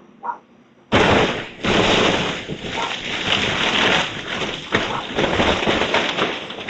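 House demolition debris crunching and cracking: splintering timber and breaking material with many sharp cracks in a dense, loud racket that starts abruptly about a second in.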